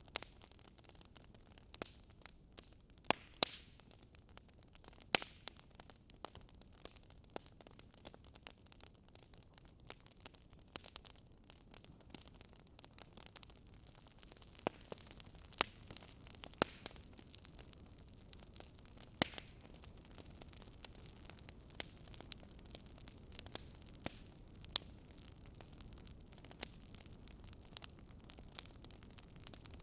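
Wood fire crackling: irregular sharp pops and snaps, a few louder ones now and then, over a low steady hiss.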